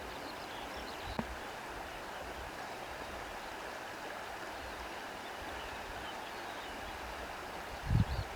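Steady rushing wash of sea waves with reeds rustling, and a short low thump near the end.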